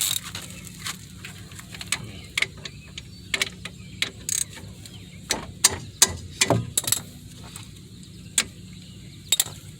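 Ratchet wrench with a 14 mm socket clicking in irregular runs as the front brake caliper bolts are worked loose.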